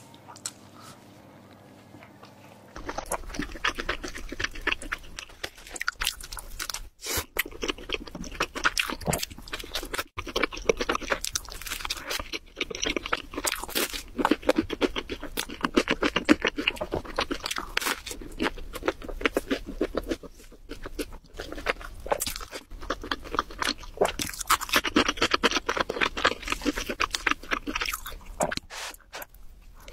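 Close-miked eating sounds: a person biting and chewing pizza and other food, with crunching and many quick wet mouth clicks. They start about three seconds in and go on without pause.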